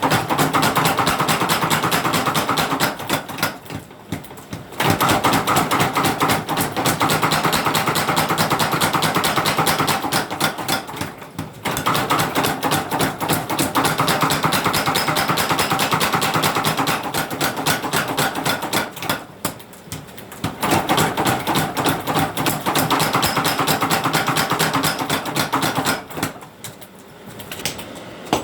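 Forging hammer striking steel for a sickle blade: fast, even blows in runs of several seconds, each run broken by a short pause.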